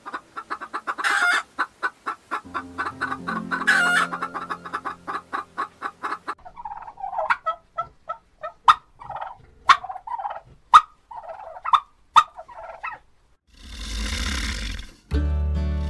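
Bird calls: a fast run of short repeated notes for about six seconds, then slower, separate short calls with sharp clicks between them, ending in a brief burst of noise. Music comes in near the end.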